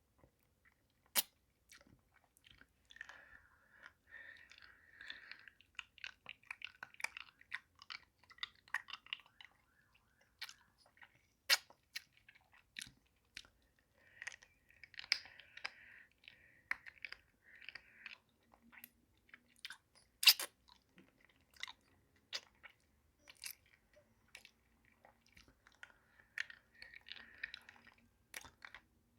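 Close-miked mouth sounds of eating a pacifier-shaped hard-candy lollipop: clusters of wet sucking and smacking with sharp clicks scattered through, the loudest click about twenty seconds in.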